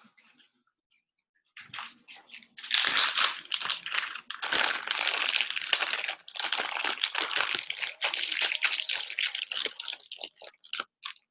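Crinkling and crunching handling noise, a dense rustle full of sharp crackles, starting about two seconds in and thinning out near the end.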